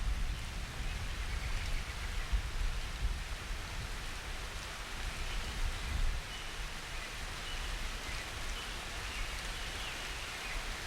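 Steady rain falling, with a low rumble underneath and faint, short high bird chirps in the second half.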